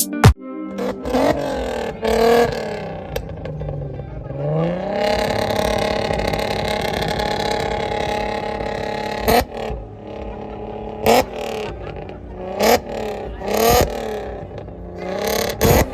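A vehicle engine revving, as in a rev-off. A couple of short revs, then the revs climb and hold high for about four seconds, then a run of quick throttle blips.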